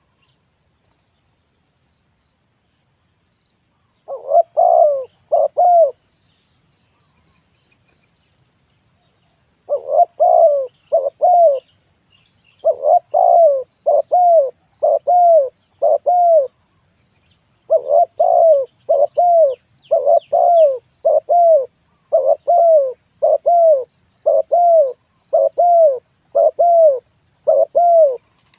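Spotted dove cooing in repeated short, arching notes. A brief group starts about four seconds in, and after short pauses the coos turn into a long, evenly paced run that lasts almost to the end.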